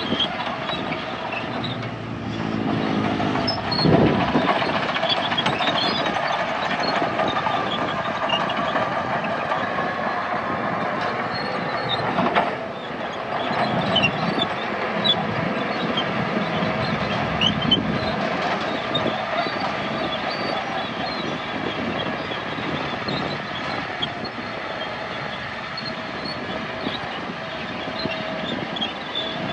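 Heavy diesel earthmoving machinery running steadily, with scattered short high metallic squeaks and clanks, and a single sharp knock about twelve seconds in.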